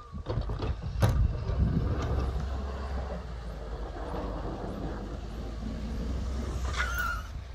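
Snow-plowing vehicle's engine running steadily, with a sharp knock about a second in and a short squeak near the end.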